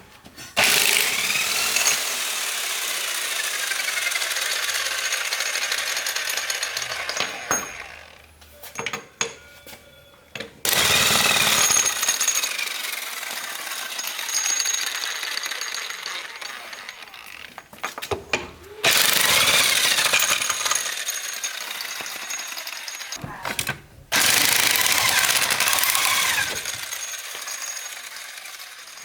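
A power tool used in truck repair, running in four long bursts of several seconds each with short pauses between them, its pitch rising and falling as it works.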